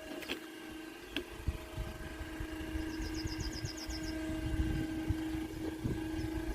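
Steady mechanical hum at one pitch over a low rumble, like an idling engine. Midway comes a short, quick run of about ten high ticks.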